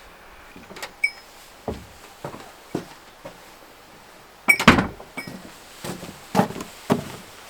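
A series of irregular knocks and clunks, the loudest a cluster of clatters about four and a half seconds in.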